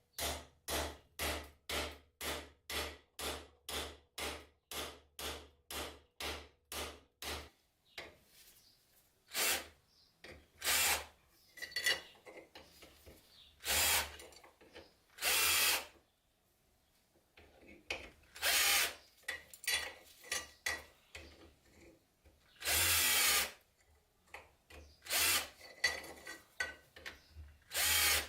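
Tool work on a rusty padlock: a quick, even run of about twenty strokes, near three a second, for the first seven seconds, then separate bursts of varying length with pauses between them.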